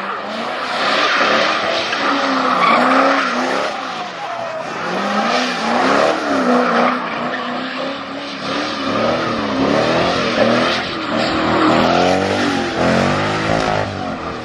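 Ford Mustang doing a burnout, its engine revving up and down repeatedly while the rear tires squeal and skid; the revs come quicker near the end.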